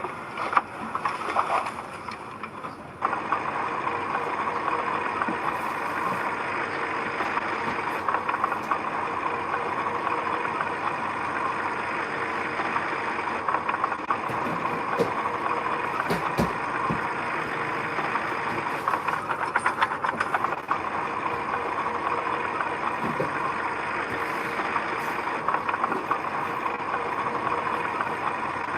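Heavy construction machinery running steadily, getting louder about three seconds in.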